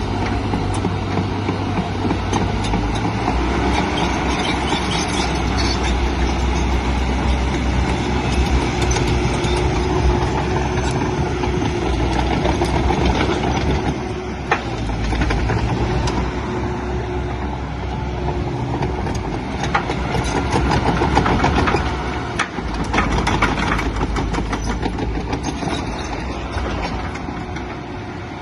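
Diesel engine of a JCB JS145LC tracked excavator running, its engine note shifting several times as the load changes, with occasional sharp metallic knocks.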